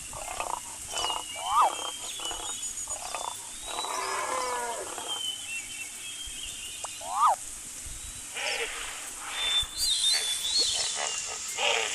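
A mix of animal calls: short sharp cries that rise and fall in pitch, a longer call about four seconds in, and higher chirps like birds in the background.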